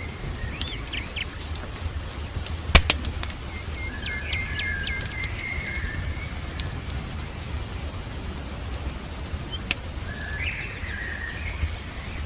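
Birds singing in short whistled phrases, three times, over the crackling and popping of a wood fire in a fireplace, with one loud pop about three seconds in. A steady low rumble runs underneath.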